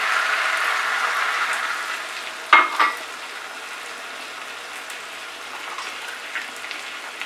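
Spinach and vegetable curry sizzling in a kadai on high flame, a steady frying hiss. A short clatter comes about two and a half seconds in, and the sizzle is quieter after it.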